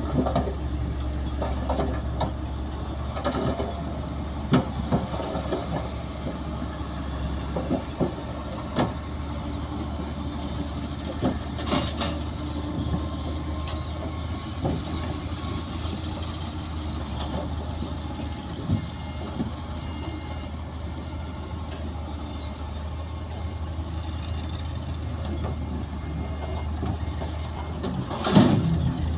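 Heavy diesel engines of a bulldozer and a loaded dump truck running steadily, with scattered metal clanks and knocks. There is a louder rush about 28 seconds in.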